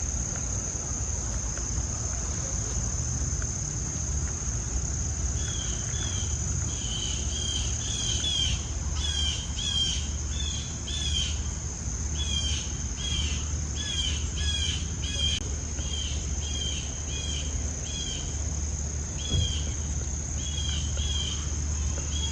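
Crickets trilling steadily, with a bird calling in short repeated chirps from about five seconds in, over a low steady hum.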